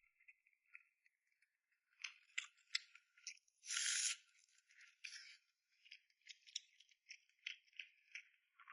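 Close-up eating sounds: crisp crackles and clicks of food being bitten and chewed, with one louder half-second crunch about four seconds in and a steady run of small pops near the end.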